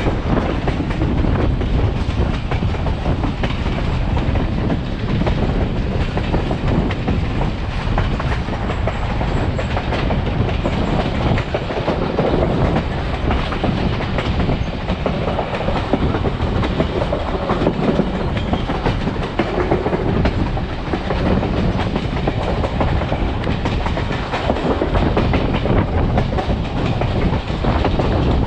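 Passenger railroad car rolling along the track at speed: a steady rumble of steel wheels on the rails with a continuous clatter of rail joints.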